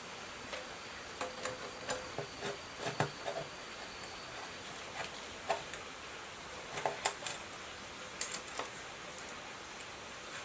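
Scattered light metallic clinks and taps, as of small metal parts or tools being handled, in irregular clusters over a steady hiss.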